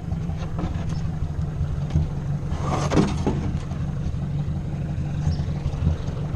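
Ford 600 tractor's four-cylinder engine running steadily, with a brief louder clatter and falling tones about three seconds in.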